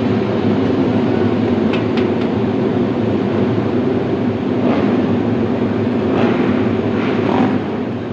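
Many racing motorcycle engines running together on a starting grid: a loud, steady mass of engine noise, with a few short, sharper sounds rising over it about two seconds in and again in the second half.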